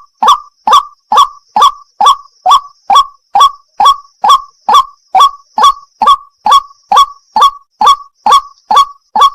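White-breasted waterhen calling its monotonous 'wak-wak' note over and over, a short loud call about two and a half times a second at a steady, unbroken pace.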